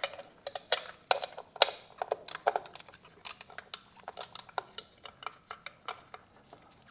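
Light metallic clinks and clicks at irregular intervals, as an 11 mm socket and other hand tools are handled and fitted, loudest in the first two or three seconds.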